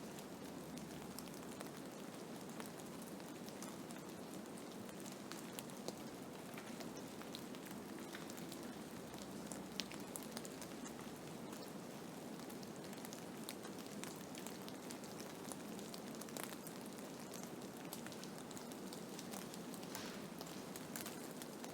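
Blizzard ambience: a steady hiss with many small ticks scattered through it, like wind-driven snow or ice grains hitting a surface.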